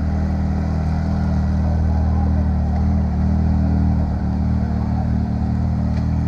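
A large engine running steadily at a constant speed, a low even drone.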